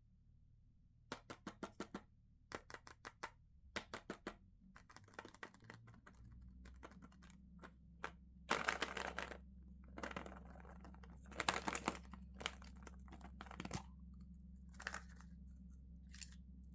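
Plastic candy packaging being handled and unwrapped. First come three short runs of quick clicking taps, then crinkling and tearing of the wrapper.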